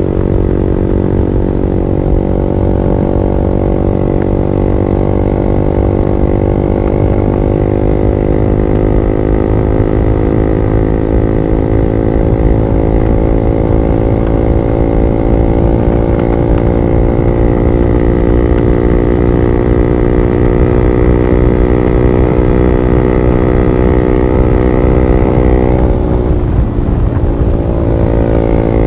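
Honda CB150R single-cylinder engine running steadily through an R9 Alpha Series aftermarket exhaust, its pitch creeping up slowly. About three seconds before the end, the revs drop briefly and then rise again.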